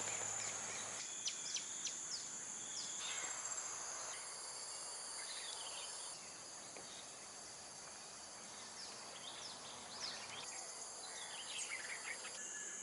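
Outdoor nature ambience: insects keep up a steady high hum while birds give scattered short chirps. The background changes abruptly several times.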